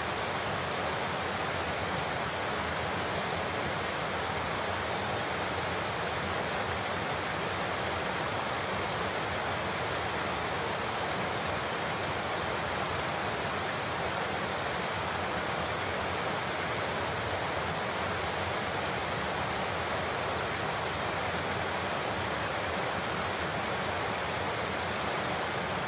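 Large waterfall pouring, a steady, unbroken rush of falling water with no change in level.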